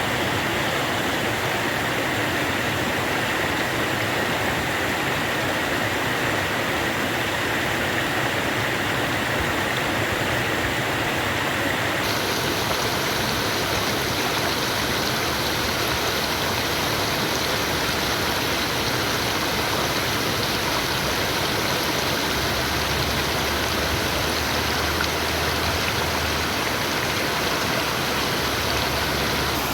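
Water rushing steadily, as of a stream or waterfall; the sound changes abruptly about twelve seconds in, as if to another spot along the water.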